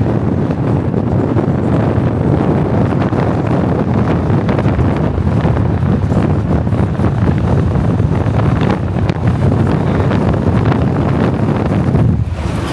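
Wind buffeting the microphone over the steady rush of a car driving at highway speed, easing briefly near the end.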